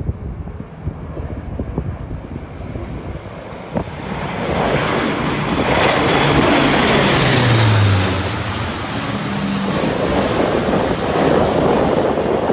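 Engine noise of a low-flying airplane swelling into a roar as it passes close, loudest about six to eight seconds in, where its low note drops in pitch as it goes by. Wind buffets the microphone.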